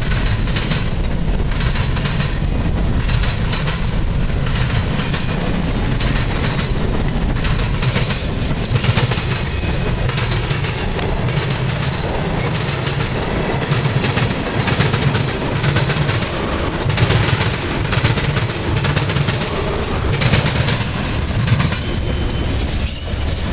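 Boxcars and tank cars of a freight train rolling past, steel wheels clattering in repeated groups as their trucks cross a railroad diamond. The last car passes near the end.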